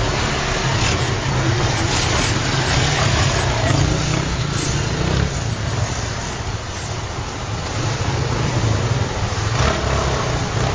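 A motor vehicle's engine running steadily, a low rumble with street noise over it.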